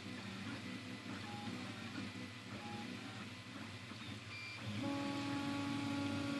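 Anet A8 3D printer running a print: its stepper motors whine through short moves, the pitch changing every fraction of a second. From about five seconds in, one steady, higher, louder tone holds through a longer move.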